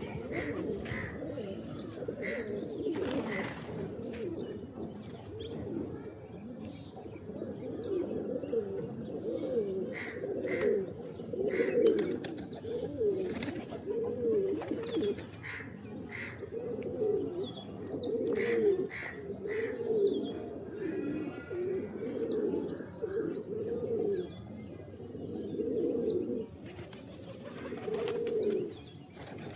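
Several pigeons cooing over one another in a continuous run of low, warbling coos, with scattered short clicks and taps among them.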